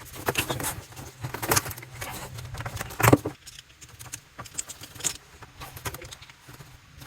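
Irregular clicks, clinks and rustles of plumbing hoses and fittings being handled under a kitchen sink, the loudest about a second and a half and three seconds in.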